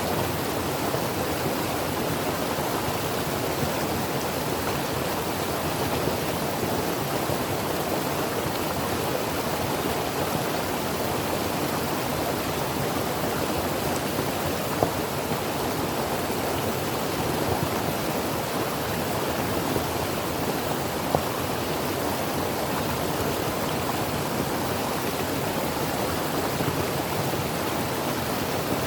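A creek's water rushing over rocks, a steady, even hiss and burble with a few faint splashes.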